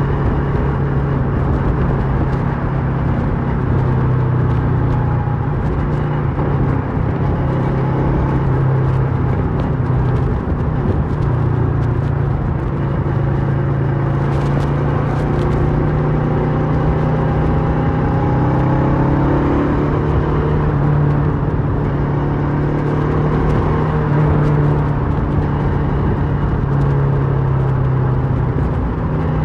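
Kawasaki Versys 650's parallel-twin engine running through a MIVV slip-on exhaust while the bike is ridden at a steady pace. Its note shifts up and down with the throttle for a few seconds about two-thirds of the way through.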